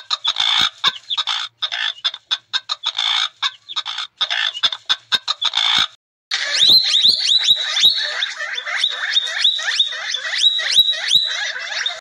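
Bird calls: a run of short, harsh squawks, then, after a short break, a rapid series of short chirps rising in pitch, several a second.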